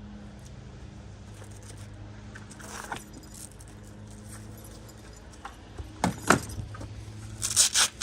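Metal gear jangling loudly near the end, after a couple of sharp knocks about six seconds in, over a steady low machine hum.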